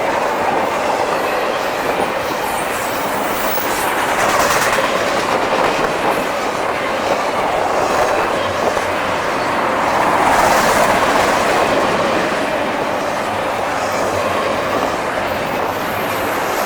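Long intermodal freight train's double-stack and piggyback cars rolling past: a steady rumble of steel wheels on rail with clickety-clack over the joints. A couple of brief high wheel squeals break through, about four seconds in and again around ten seconds.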